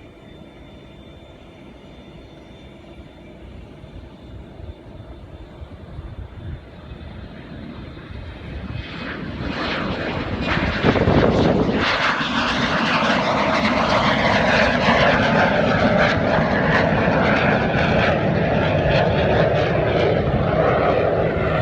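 Pratt & Whitney J60 turbojet of an L-29 Delfin departing at takeoff power, a dense jet noise with no clear beat. It is faint at first, grows much louder from about eight seconds in, and stays loud over the last ten seconds.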